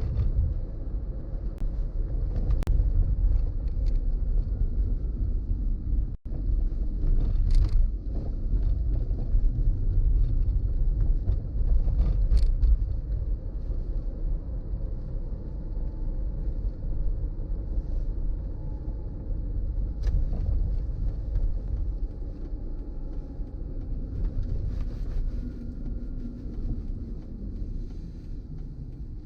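A car driving along: a steady low rumble of engine, road and wind noise, with a few faint ticks. The sound cuts out for an instant about six seconds in.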